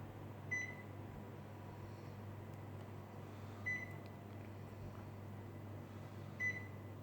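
Panasonic mini split air conditioner indoor unit beeping three times, about three seconds apart, each a short single high beep acknowledging a remote-control command, over a steady low hum.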